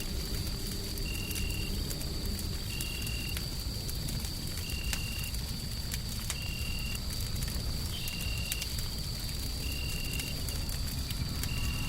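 Wood fire crackling with scattered sharp pops over a steady low rumbling noise. A faint steady high whine runs throughout, and a short high beep repeats about every second and a half.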